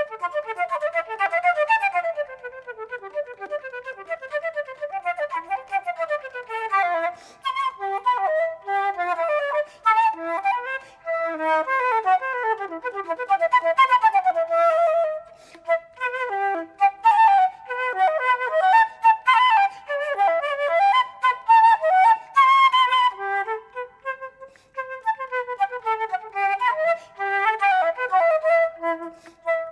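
Concert flute playing fast running passages of notes, with a couple of short pauses.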